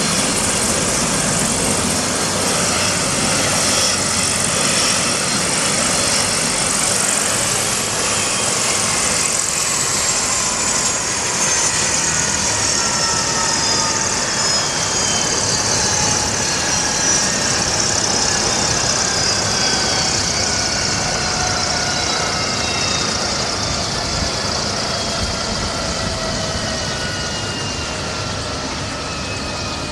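Bell 407 helicopter's turbine engine and rotor running, with a high whine that starts to fall slowly in pitch about seven seconds in and keeps sliding down: the engine spooling down.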